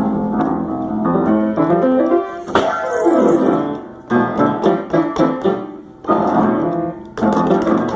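Piano played in loud clusters of many notes at once, in several short runs broken by brief pauses.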